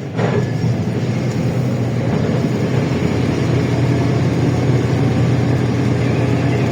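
LiAZ-677M bus engine running steadily under way, a continuous low drone.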